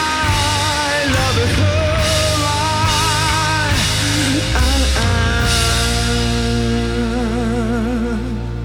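Rock band playing: drums and bass under a lead line of held, bending notes with vibrato. The band thins out near the end and the level drops.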